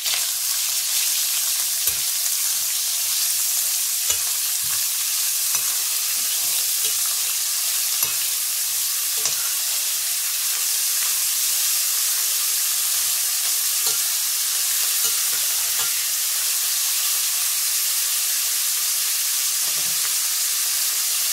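Chopped meat and onion sizzling in hot oil in a stainless steel pot, a steady frying hiss. Now and then the spoon knocks and scrapes against the pot as the food is stirred.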